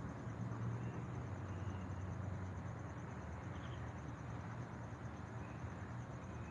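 Outdoor ambience: a steady, finely pulsing high insect trill, with a few faint short bird chirps, over a low rumble.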